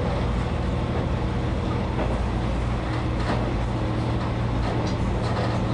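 Diesel railcar running steadily at speed: a constant low engine hum under the rumble of wheels on the rails, with a few faint clicks, heard from the driver's cab.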